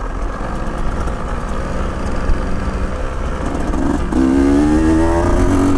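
Motorcycle engine running under way, a low rumble that becomes a louder, slightly rising engine note about four seconds in as the bike accelerates.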